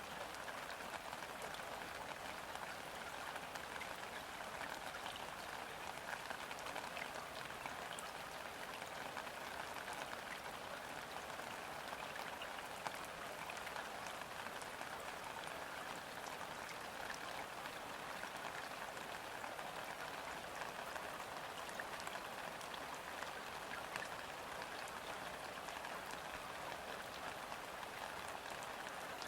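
Steady light rain falling on a river's surface: an even hiss of countless small drops, with many tiny individual splashes ticking through it.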